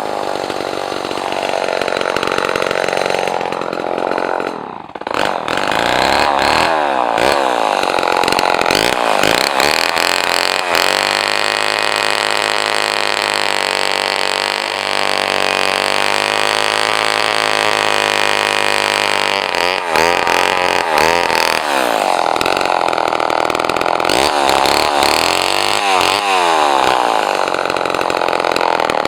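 Two-stroke chainsaw engine running and being revved, its pitch rising and falling. Around five seconds in the revs drop sharply, then climb again. Through the middle the speed holds fairly steady for several seconds before rising and falling again.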